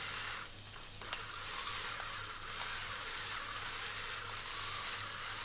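Sliced onion and garlic sizzling in olive oil in a frying pan, a steady soft hiss, with a faint low hum underneath.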